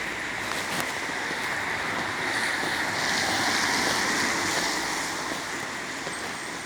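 Steady rain falling, an even hiss that swells louder for a couple of seconds in the middle.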